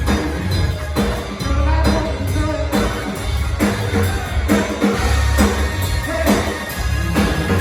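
Live rock band playing, with a drum kit keeping a steady beat over strong bass and a voice singing.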